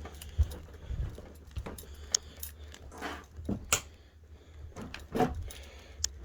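Scattered light clicks, knocks and metallic jingles as a bunch of keys is handled while moving about a small caravan room, with a few louder knocks.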